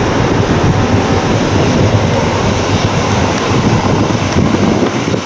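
Loud, steady rumbling rush of wind buffeting the microphone, blended with the noise of jet aircraft engines.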